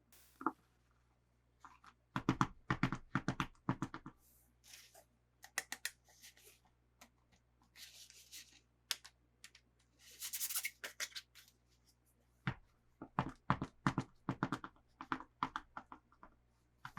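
Hands handling plastic toy packaging: clusters of sharp clicks and taps, with short bursts of crinkling about eight and ten seconds in.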